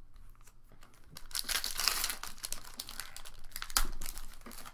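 Foil booster-pack wrapper crinkling and tearing as it is opened by hand, in a dense burst of crackle about a second in, with another sharp rustle near the end.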